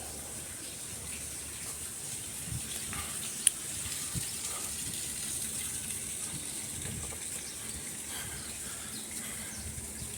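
Water running steadily in a small water feature, with a single sharp click about three and a half seconds in.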